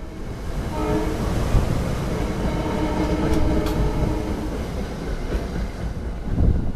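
SEPTA electric commuter train passing through the station, a steady low rumble of wheels on rail with a faint clickety-clack and some faint motor tones, just after its horn cuts off.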